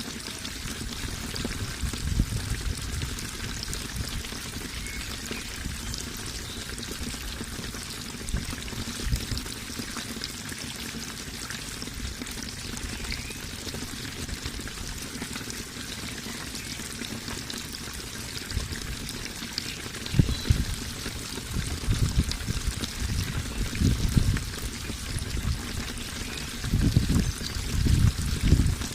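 Water flowing and splashing steadily. Irregular low rumbles come through, more often and louder in the last third.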